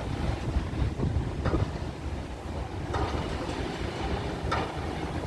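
Loaded ballast wagons of a freight train rolling across a concrete rail bridge: a steady low rumble with a sharp wheel click about every second and a half.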